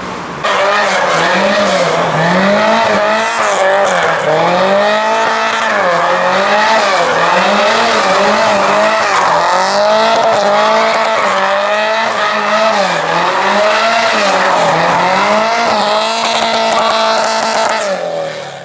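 A car drifting in circles, its engine revs rising and falling about once a second over the squeal of the spinning tyres.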